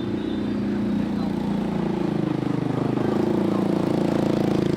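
A small engine running close by, its pitch sliding down and back up through the middle and growing louder toward the end.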